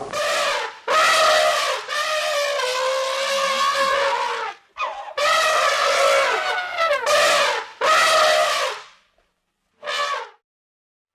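Elephant trumpeting: a run of loud, brassy blasts, some short and some held for a couple of seconds, followed near the end by one brief call after a pause.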